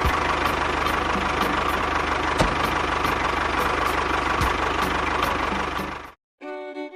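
Small engine running steadily with a fast, even chugging pulse. It cuts off abruptly about six seconds in, and music starts just before the end.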